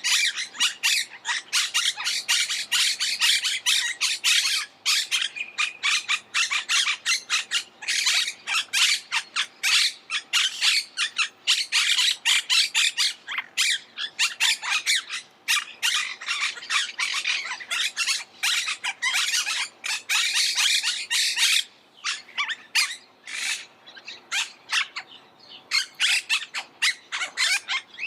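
Monk parakeets calling: a constant chatter of harsh, rapid squawks from several birds at once, briefly thinning a few times.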